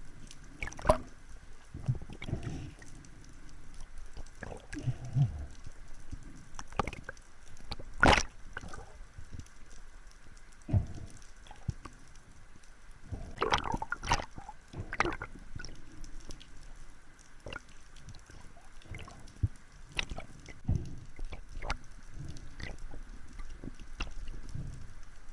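Water sloshing and gurgling, with scattered irregular clicks and knocks; the loudest knock comes about eight seconds in.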